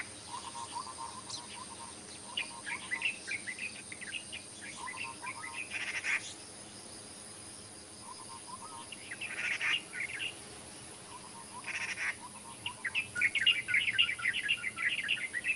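Wild birds calling: repeated bursts of quick, high chirps and a recurring lower trill, over a steady high-pitched drone.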